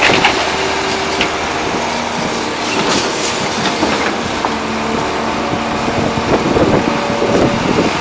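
Volvo EC380D excavator at work: the diesel engine and hydraulics run under load, with metallic squealing and clattering from the bucket and rock.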